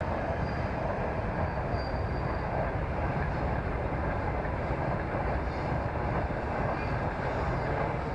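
Yamaha YZ125 two-stroke dirt bike running at low revs, heard as a steady, even rumble without a clear engine note.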